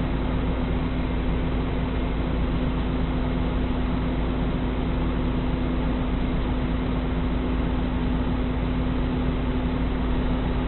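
Steady road and engine noise of a vehicle on the move, with a constant hum.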